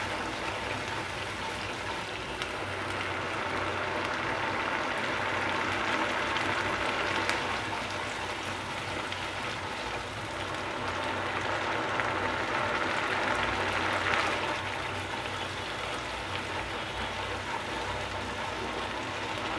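Spice paste sizzling steadily in hot oil and ghee in a nonstick pan as it is stirred with a spatula, the hiss swelling and easing: the masala being sautéed (kosha) down for a chicken roast.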